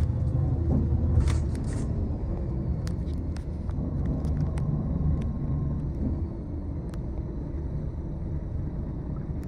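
Tour bus heard from inside the cabin while driving: a steady low engine and road rumble, with scattered light clicks and rattles.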